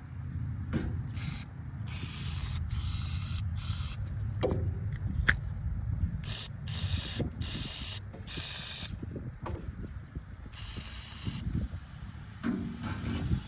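Compressed-air blowgun blowing dust and grime out of the knotters of a New Holland HayLiner 65 hay baler, in about ten short, irregular hissing blasts over a steady low rumble.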